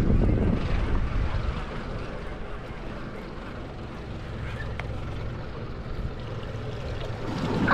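Wind buffeting the microphone over water sloshing against a boat's hull, louder in the first second and then steady.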